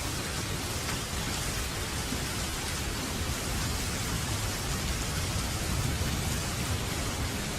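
Steady rain falling, a dense, even hiss, with a low rumble like distant thunder swelling and fading underneath.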